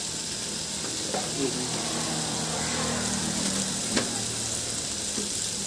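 Chicken masala sizzling and frying steadily in a pan, with a single sharp clink about four seconds in.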